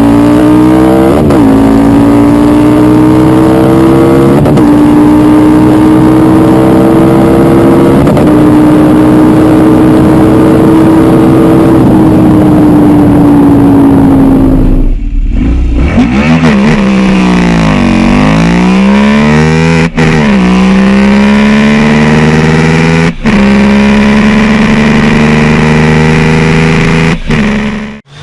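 Motorcycle engine accelerating hard through the gears, its pitch climbing and then dropping at each upshift. A cut about halfway through starts a second run in which the pitch dips and climbs again before several more upshifts.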